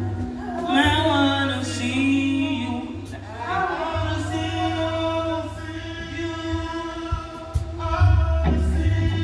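Gospel worship music: several voices sing long held notes with a light waver over a band's steady bass line.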